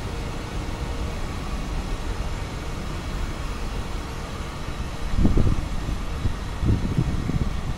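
Vintage Centoporte passenger coaches rolling slowly past on the rails: a steady low rumble of wheels on track, with two louder low bumps about five and seven seconds in.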